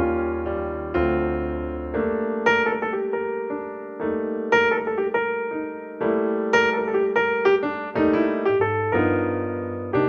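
Piano music: notes struck in a steady pattern over chords that change about every two seconds, each note fading after it is struck.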